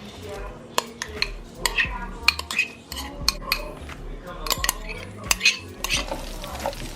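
A utensil stirring in a cooking pot, with repeated irregular sharp clinks and knocks against the pot's side as the food is mixed.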